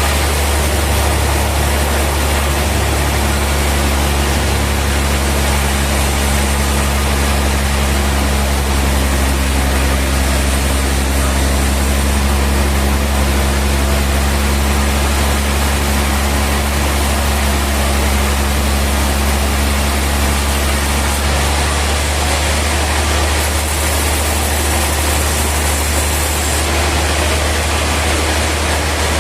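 Sawmill machinery running steadily: a loud, even mechanical hum and rush with a deep drone underneath. Some of its lower tones drop away about 22 seconds in.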